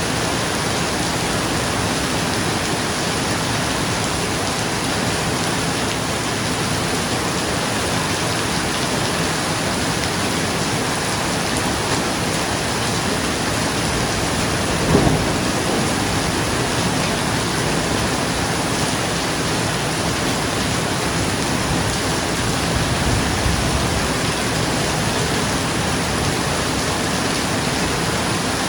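Steady heavy rain drumming on a roof, with a short, sharp clap of thunder about halfway through and a fainter low rumble of thunder later on.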